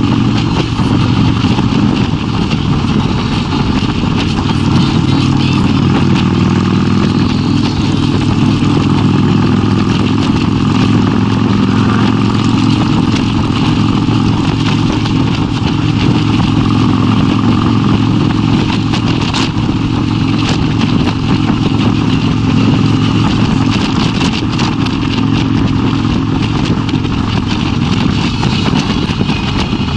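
Kawasaki Vulcan 1600's V-twin engine running steadily while the motorcycle cruises at an even speed, with no clear revving or gear changes.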